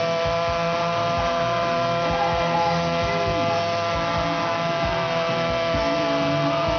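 Motorcycle engine held at steady high revs, its pitch not changing.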